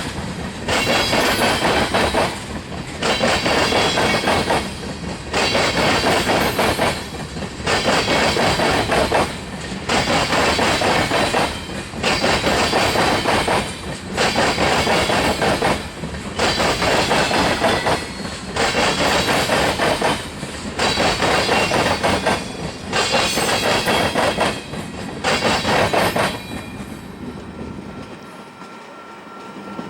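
Freight cars of a BNSF manifest train rolling across a railroad diamond: the wheels clatter loudly over the crossing in a regular rhythm, a loud group about every two seconds as each car passes. The clatter stops about 26 seconds in as the last car clears, leaving a quieter rumble.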